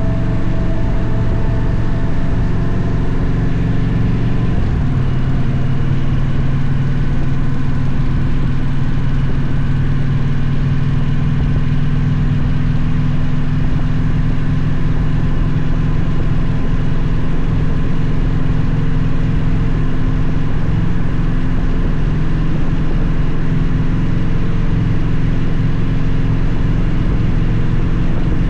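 Victory motorcycle's V-twin engine running steadily while riding at a constant pace. The engine note shifts slightly about five seconds in, then holds even.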